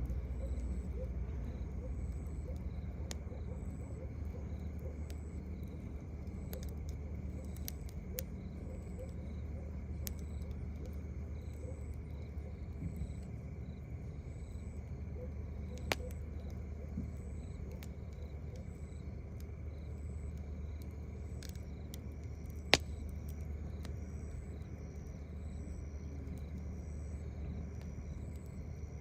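Crickets chirping, a short high chirp repeated about once a second, with a second chirper at a different pitch joining in the latter part, over a low steady rumble. A campfire gives a few sharp pops, the loudest about two-thirds of the way in.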